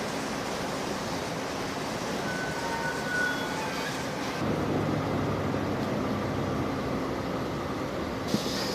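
Limestone freight train running over the rails with a steady rumble, a few brief high-pitched tones about three seconds in, and a heavier, lower rumble from about halfway.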